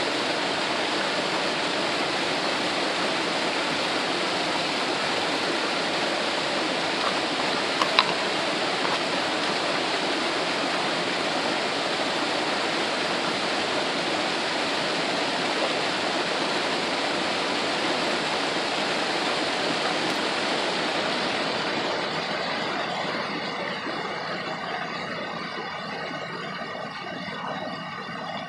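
Waterfall rushing steadily, with one sharp click about eight seconds in; the rush grows quieter and duller over the last several seconds.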